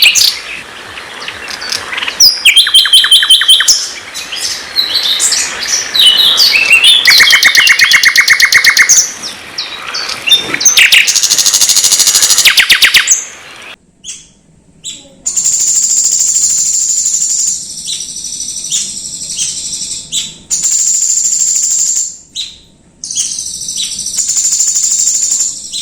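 Recorded songbird song played as masteran, training song for a white-rumped shama: a fast run of varied high whistles, trills and rapidly repeated notes. About halfway through it breaks off suddenly, and then a steady, very high continuous note runs on, interrupted by short gaps and chirps.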